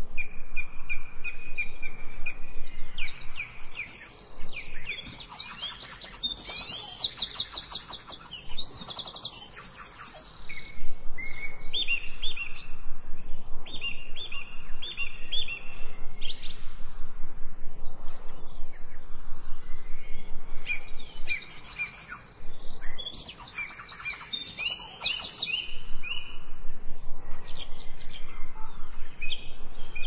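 Several songbirds singing and chirping at once: overlapping rapid high trills and runs of short, evenly repeated chirps, thinning out for a few seconds past the middle before picking up again.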